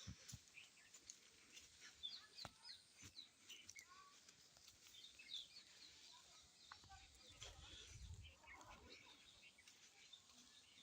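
Faint birdsong: many short chirps from several small birds, scattered throughout. A few sharp clicks, and a low rumble about seven to eight seconds in.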